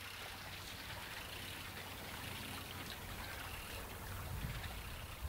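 Water flowing steadily along a channel below a waterfall, a continuous rushing hiss, with a low rumble that strengthens about four seconds in.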